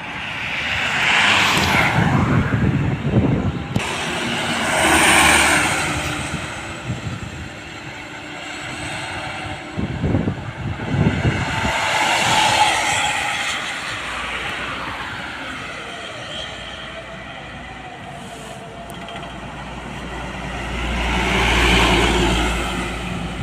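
Road traffic: vehicles passing one after another, each swelling in loudness and fading, about four passes. A heavy vehicle passes near the end with a deep rumble.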